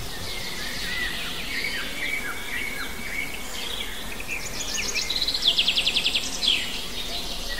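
Wild birds singing: many short chirps throughout, and in the second half one bird's rapid trill of about ten quick notes that ends in a downward sweep.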